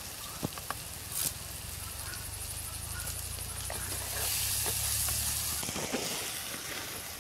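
Chopped onions and curry leaves sizzling in hot oil in a clay pot, with a few light knocks of a wooden spatula. The hiss swells for a second or two about four seconds in.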